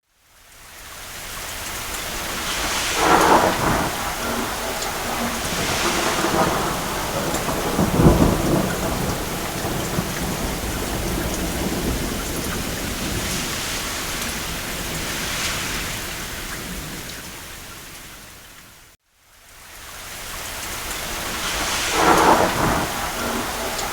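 Steady rain falling, with thunder rumbling several times: the loudest near three and eight seconds in, and again near the end. The sound fades out to silence about 19 seconds in and then fades back in.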